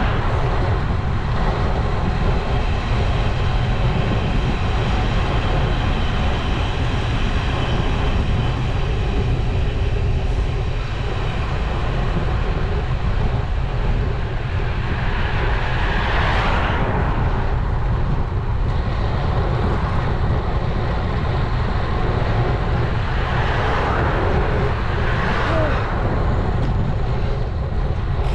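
Wind rushing over a helmet- or bike-mounted action camera's microphone on a moving road bike, a constant heavy rumble. Passing traffic swells up twice, about halfway through and again near the end.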